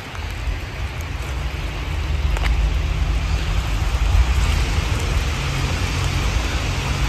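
Steady rain falling, with a constant low rumble underneath and a couple of single sharp ticks in the first half.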